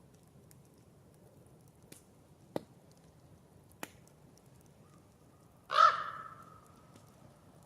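Campfire crackling softly, with two sharp pops. About two-thirds of the way through comes a single loud, harsh caw from a crow-family bird, the loudest sound here.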